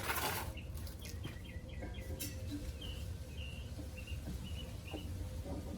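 A small bird chirping in a run of short, high notes, over a steady low rumble. A brief rustling noise sounds at the very start.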